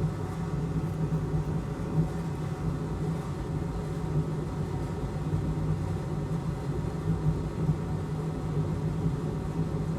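Steady low hum of a running electric fan, even and unbroken throughout.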